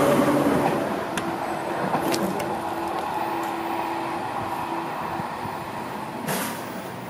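Seibu Railway electric commuter train running on the tracks, its noise slowly fading, with a steady hum in the middle and a few clicks. A short burst of noise comes near the end.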